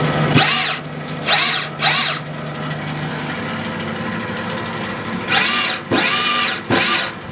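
SIP MIG welder's wire-feed motor whirring in about six short bursts that speed up and run down as the torch trigger is pressed, over the steady hum of the welder's fan. The wire is not feeding: it is stuck between the contact tip and the swan neck.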